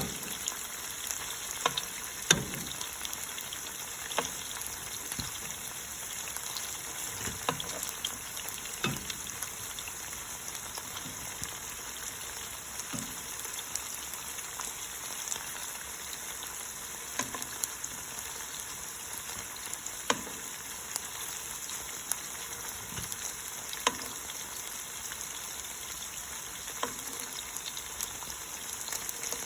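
Cornstarch-coated chicken pieces frying in hot oil in a pan: a steady sizzle, with scattered clicks of a utensil as the pieces are turned.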